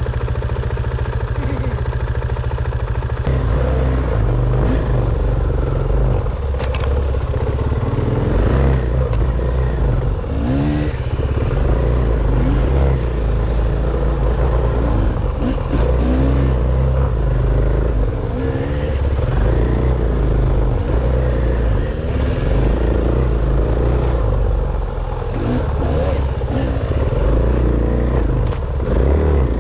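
Dirt bike engine riding off-road. It runs fairly evenly for the first few seconds, then the revs rise and fall over and over as the throttle is worked.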